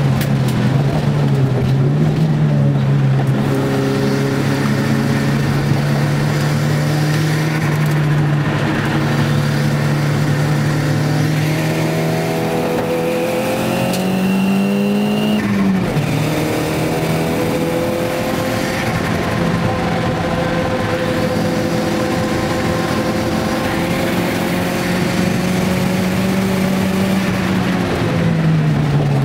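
Nissan Gazelle's turbocharged CA20DET 2.0-litre four-cylinder engine heard from inside the cabin, running hard on track. About halfway through the revs climb for a few seconds with a high whine rising alongside, then fall away sharply. The engine holds fairly steady after that and drops again near the end.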